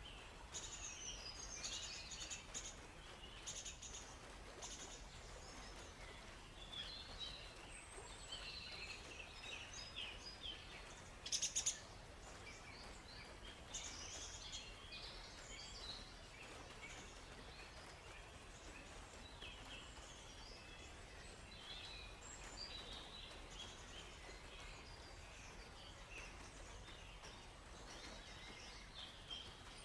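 Forest birds chirping and calling, many short high calls overlapping, with a brief louder flurry of sharp calls about eleven seconds in, over a faint steady low background.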